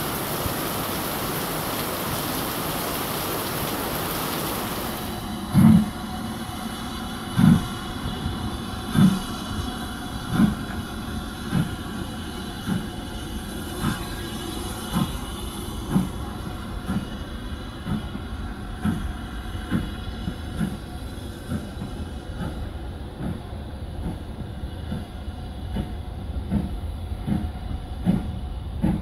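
A steady hiss, then a train pulling away: regular low thumps that come faster and faster as it gathers speed, over a low rumble.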